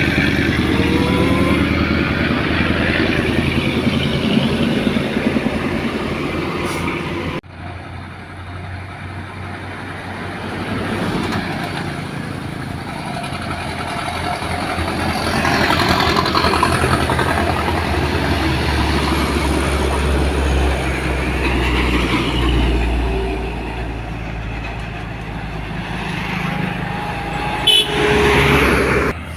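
Loaded diesel trucks climbing a steep grade at low speed, their engines running hard under load along with passing traffic. The sound breaks off abruptly about seven seconds in and then continues, and the low engine sound swells in the middle of the stretch.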